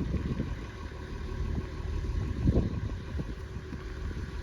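Gusty wind buffeting the microphone: an uneven low rumble that swells and fades, strongest about halfway through.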